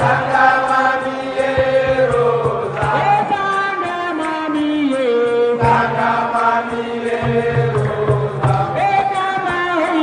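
A group of voices chanting together, holding long notes that slide in pitch, over a low steady hum.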